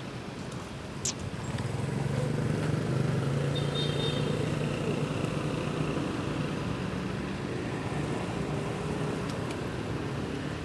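A motor vehicle's engine running close by, a low hum that swells about two seconds in and slowly fades. A single sharp click comes about a second in.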